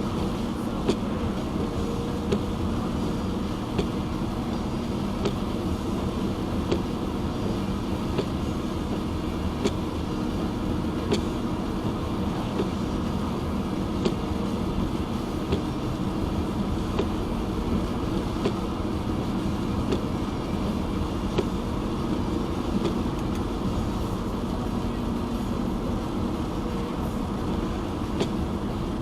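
Car driving on a wet highway: steady tyre and road rumble, with a light tick from the windshield wipers about every second and a half.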